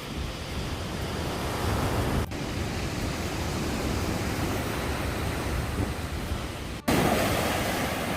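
Sea waves washing onto the beach, with wind on the microphone. The sound breaks off abruptly about two seconds in and again near seven seconds in, coming back louder after the second break.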